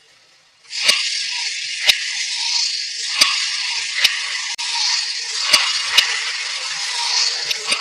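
Steady high hissing rush that starts just under a second in and stops near the end, with sharp plastic clicks every second or so.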